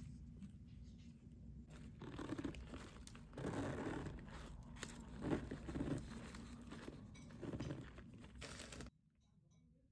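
Irregular crinkling and rustling handling noise, louder in patches, which cuts off abruptly near the end.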